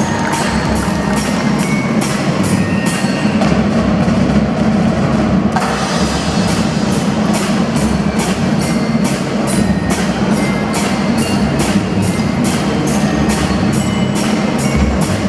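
Marching drum band playing: drums and cymbals keep a steady beat of about two to three crashes a second, over a deep drum band and a bell-like melodic part. The cymbal crashes drop out briefly about four seconds in, then resume.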